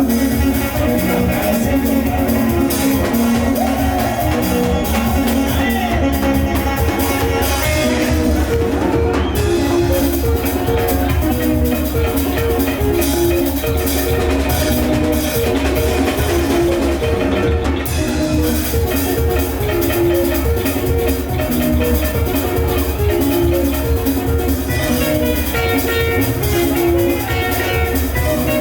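Band music playing an instrumental passage: quick, repeated plucked notes over a steady bass and drums.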